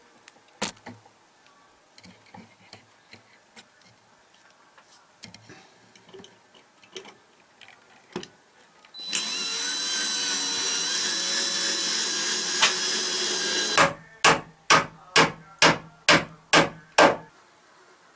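Scattered light knocks, then a handheld power tool runs steadily with a high whine for about five seconds. It stops and a hammer strikes seven quick, evenly spaced blows, driving nails into wood.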